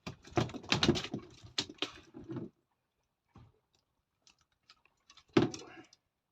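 Rattling and knocking from handling freshly caught pollock on a sabiki rig, then one loud sharp slap-splash about five seconds in as a pollock is thrown back into the sea.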